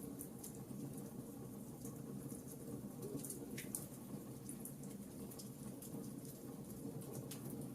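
Wood fire burning in a fireplace: a steady low rustle of flames with scattered small crackles and pops from the burning logs.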